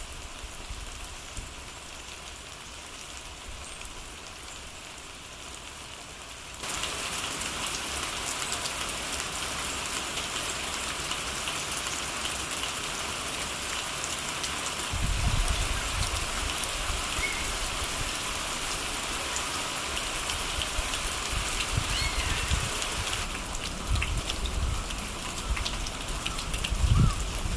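Rain falling steadily, a soft even hiss that gets louder about six seconds in. From about halfway through, low rumbling bumps are mixed in with it.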